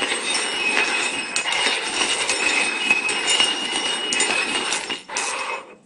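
Glasses being slid and shuffled around over a hard surface: a continuous scraping rattle with ringing glass clinks. It breaks off briefly about five seconds in, then stops shortly before the end.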